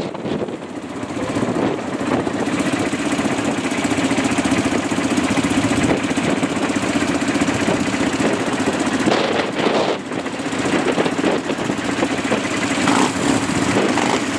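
Quad bike engine running steadily while riding, a constant drone with rough noise over it.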